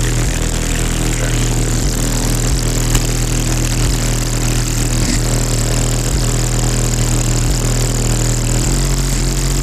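Truck's car-audio subwoofer system playing deep bass very loud: long held low notes that shift in pitch near the end.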